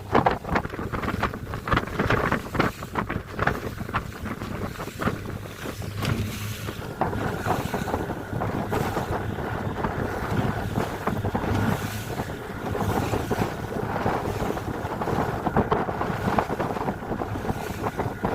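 Wind buffeting the microphone over water sounds from a small boat at sea, with irregular knocks and splashes and a faint steady low hum underneath.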